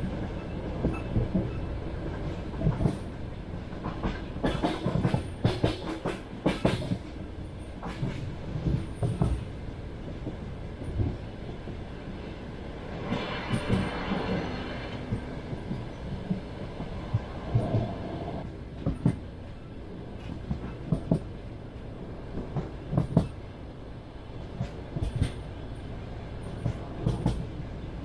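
Passenger train wheels running on the rails: a steady rumble with frequent sharp, irregular clacks and knocks from the wheels and carriage. A harsher, rasping stretch comes about 13 s in, and a short squeal near 18 s.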